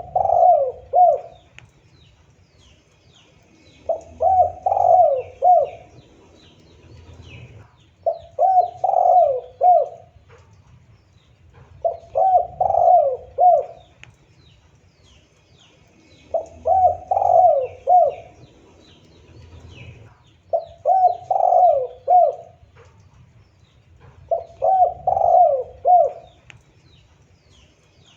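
Spotted dove (tekukur) cooing: a short phrase of about four falling coos, repeated roughly every four seconds.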